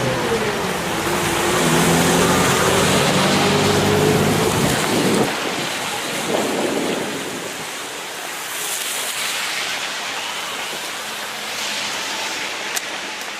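A motor vehicle's engine running steadily over a constant rushing noise. The engine sound stops about five seconds in, leaving the rushing noise alone.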